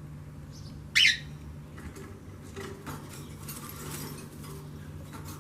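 A small bird gives one loud, short chirp that sweeps downward about a second in, followed by faint, scattered chirps.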